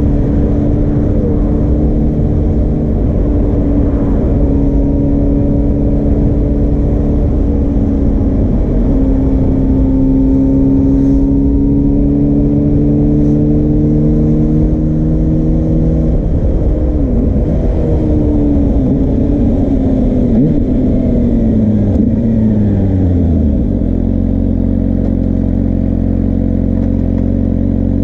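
Suzuki GSR400's inline-four engine running through a Yoshimura Cyclone Tri-Oval exhaust: the pitch climbs slowly for several seconds, then falls away in steps and settles to a low, steady idle near the end.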